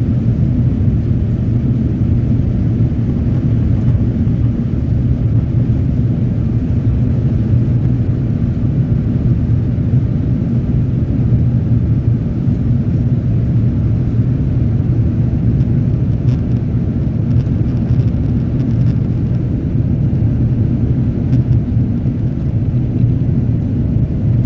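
Jet airliner cabin noise during the climb after takeoff: a steady, loud, low rumble of the engines and rushing air, heard from inside the passenger cabin.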